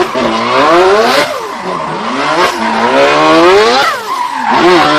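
A drift car's engine revving hard, its pitch climbing and falling several times, over the hiss of tyres skidding.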